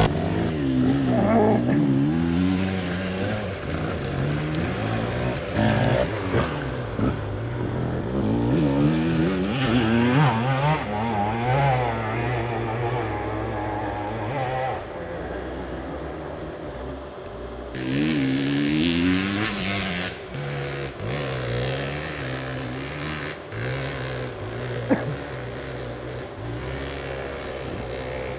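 Dirt bike engine revving up and down over and over as the bike is ridden along an off-road trail, the pitch rising and falling with each throttle blip and gear change. A single sharp knock near the end.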